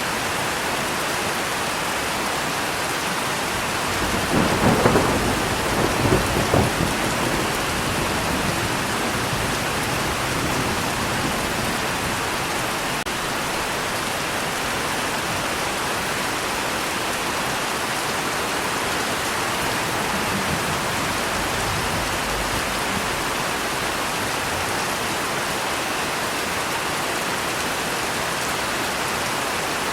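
Steady rain falling, with a roll of thunder starting about four seconds in that swells twice and fades by about eight seconds.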